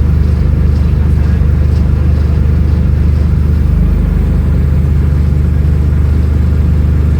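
Scania N310UA articulated city bus's diesel engine running steadily with a low, even drone.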